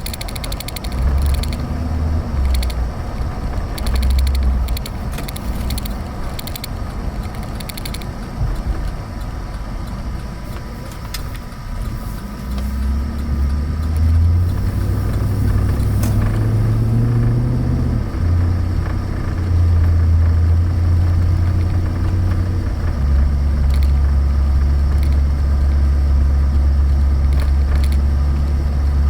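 A 2013 Chevrolet Avalanche's engine running, a low drone whose pitch steps up and down, then holds steady from about two-thirds in.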